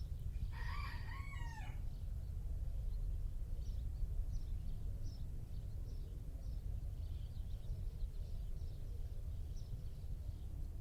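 A bird's loud call lasting about a second, starting about half a second in, with short high chirps repeating throughout and a steady low rumble underneath.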